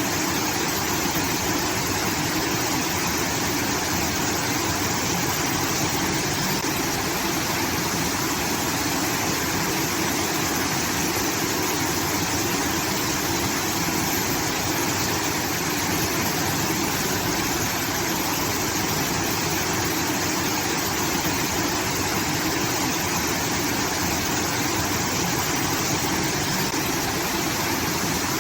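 Water from a rice-field irrigation system pouring in a steady, unbroken rush that sounds like a waterfall.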